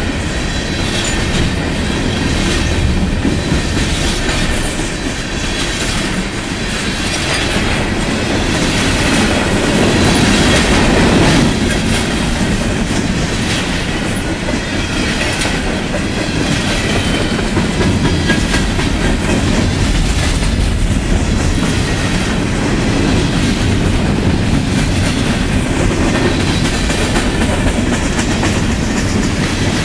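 Freight cars, gondolas and covered hoppers, rolling past close by. The steel wheels click over the rail joints above a loud, steady rumble.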